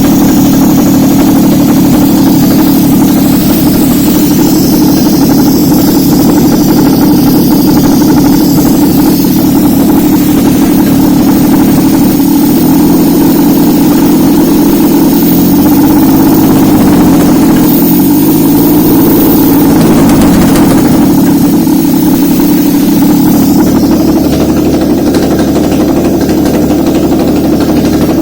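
Nissan VQ35DE 3.5-litre V6 engine running on a test stand, mostly idling steadily; about halfway through the engine speed slowly rises and then falls back.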